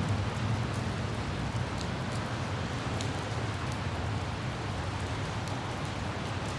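Light rain with scattered droplet ticks over the steady low rumble of a car driving.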